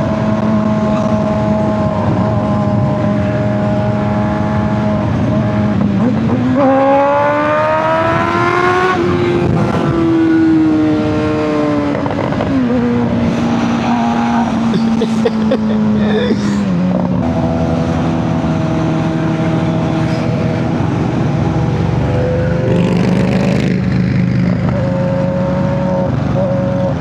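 Honda CBR600RR's inline-four engine running under way at steady cruising revs. Its pitch rises about six seconds in as the bike accelerates, falls back, steps down again later, and climbs once more near the end.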